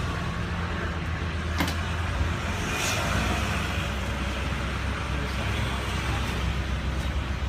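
Mini tourist train running along the road, heard from on board: a steady low engine rumble with road noise, and a sharp click about a second and a half in.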